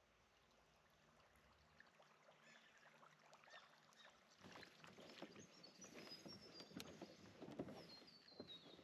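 Kayak paddling: a run of soft splashes and knocks of the paddle in the water, starting about halfway through. A bird calls twice, each a short falling series of high notes.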